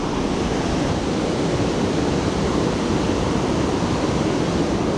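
Steady rushing of water pouring over a dam as a man-made waterfall.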